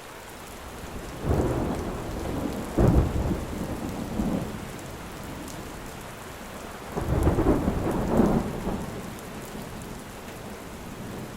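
Steady rain falling through a thunderstorm, with two rolls of thunder: the first starts about a second in with a sharp crack partway through, the second comes after the middle and rumbles for about two seconds.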